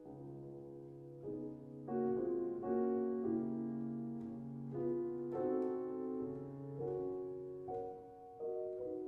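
Solo piano playing classical music: slow, sustained chords over held bass notes, with a new chord struck every second or so.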